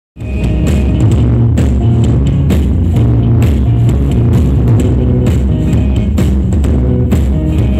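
Live rock band playing loudly, with a heavy bass and a steady, driving drum beat.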